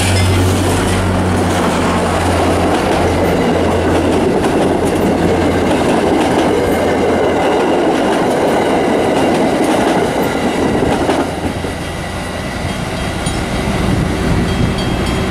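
Commuter train passing close by: the locomotive's low engine drone fades in the first few seconds as the coaches roll past with a steady wheel-on-rail rumble and clatter. The rolling noise drops away about eleven seconds in as the train moves off.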